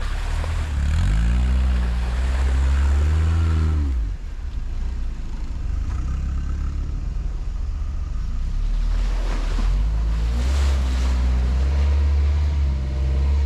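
Quad bike (ATV) engine running under throttle, revving with its pitch climbing and falling about one to four seconds in, then settling to a steady low run before revving up again in the second half. A short rushing noise rises over the engine about ten seconds in.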